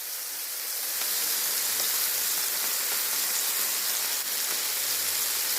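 Chicken hearts sizzling on a hot grill: a steady hiss that grows a little louder about a second in.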